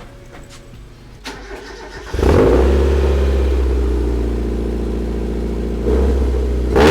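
Mazda Miata engine starting about two seconds in, then idling with a steady note and two brief revs near the end, heard through a homemade dual exhaust that still has leaking welds.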